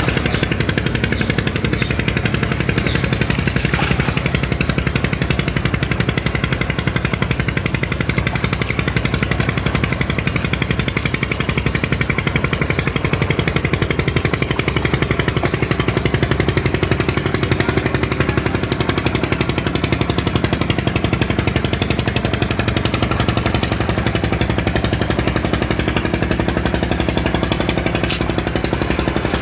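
A boat's diesel engine running steadily under load, with a fast, even clatter.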